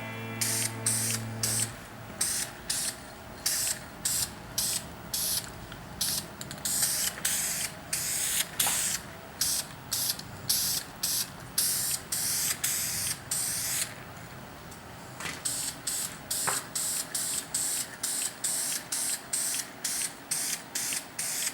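Aerosol can of red engine enamel spraying in many short, quick blasts of hiss, with a brief pause about two-thirds of the way through.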